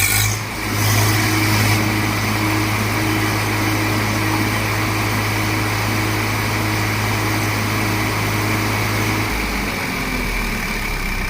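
Swaraj 744 FE tractor's three-cylinder diesel engine running at a steady speed, then its pitch drops as it slows toward idle about nine seconds in. A brief hiss is heard over it in the first two seconds.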